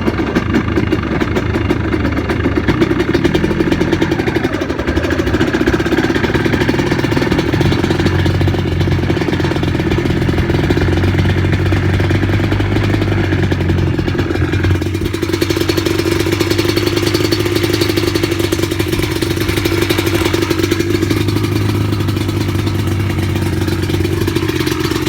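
Yamaha Blaster ATV's single-cylinder two-stroke engine running while being ridden, its note rising and falling with the throttle.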